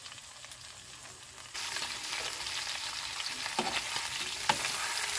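Chicken and potatoes sizzling in hot oil in a pan, a steady hiss that gets louder about a second and a half in. A spatula stirring the food knocks against the pan a couple of times near the end.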